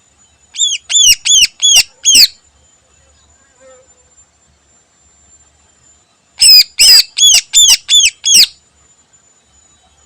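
Greater green leafbird (cucak ijo) singing: two loud bursts of sharp, rapidly repeated downslurred whistles, about six notes near the start and about eight more a few seconds later.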